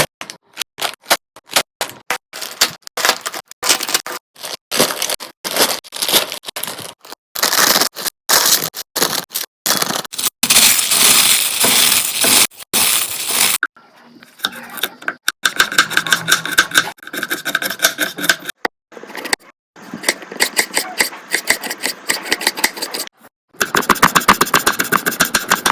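Potato chips crackling and crunching as they are crushed by hand, with the crinkle of the chip packet, in quick irregular bursts and a few longer stretches of rustling; a fast rattling run near the end.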